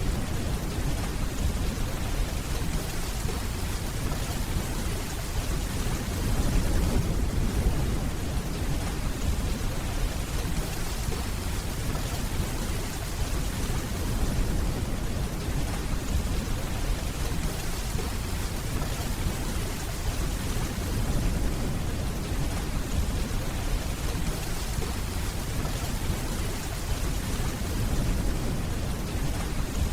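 Steady rainfall with a low rumble of distant thunder underneath.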